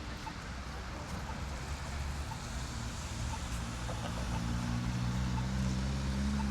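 Road traffic: motor vehicles running, with one engine's hum rising in pitch and growing louder over the second half. A faint short tick repeats about once a second.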